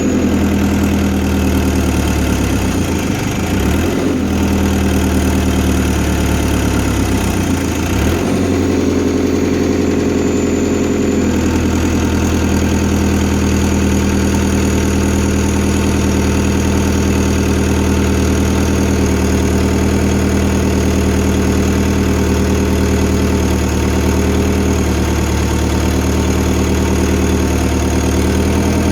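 Diesel engine of a Fiat Hitachi FH150 excavator running steadily, its pitch sagging briefly twice in the first eight seconds, then holding even.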